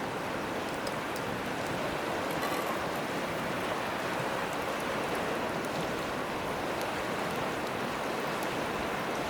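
Steady rush of flowing river water, with a wood campfire giving a few faint, sharp crackles scattered through it.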